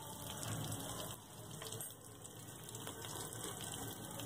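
Faint, steady sizzle of garlic, curry leaves, green chillies and ground spices frying in oil in a steel pan.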